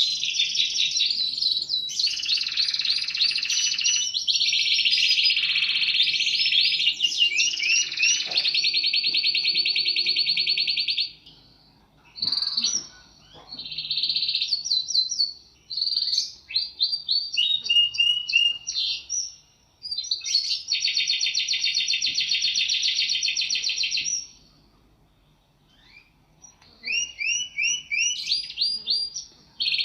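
Domestic canary singing in long, fast trills and rolls of repeated high notes, with short gaps about a third of the way in and again near the end.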